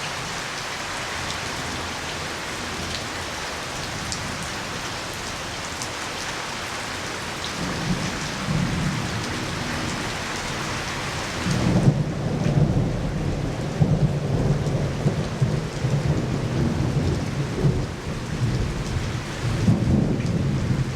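Heavy rain hissing steadily. From about eight seconds in a low, uneven rumbling joins it, and at about twelve seconds the rumbling grows louder and gusty while the rain hiss drops back.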